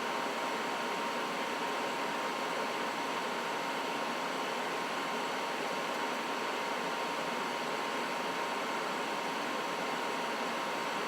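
Trane XB80 gas furnace running steadily: an even rush of air with a thin, steady high whine.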